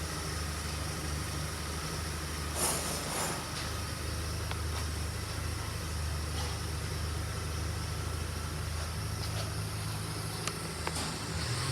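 Suzuki GSX750S Katana's air-cooled inline-four engine idling steadily, with a short burst of noise about two and a half seconds in.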